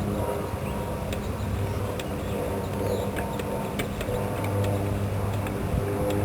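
A steady low hum, with light sharp clicks about once a second from a hand grease gun being pumped to force grease into the landing gear jackscrew.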